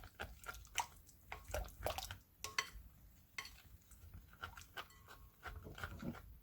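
A spoon clinking and tapping against a bowl in an irregular run of light clinks, some briefly ringing, as spoonfuls of gochugaru are scooped and added to a liquid kimchi seasoning.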